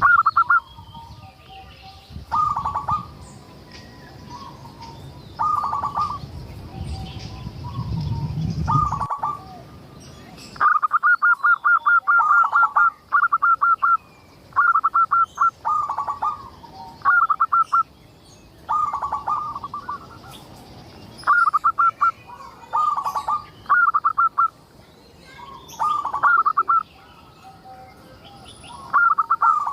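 Zebra dove (perkutut) singing: short trilled coo phrases of rapid staccato notes, repeated every two seconds or so, with a run of phrases close together about a third of the way in. A low rumble underlies the first third and cuts off suddenly, and faint chirps of other birds are heard between phrases.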